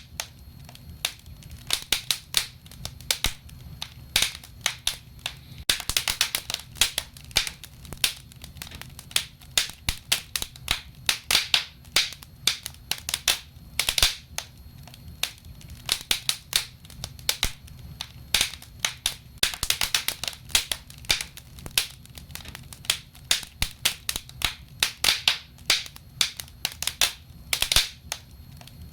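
Wood fire burning in a fireplace, crackling and popping in quick, irregular snaps over a low steady rumble.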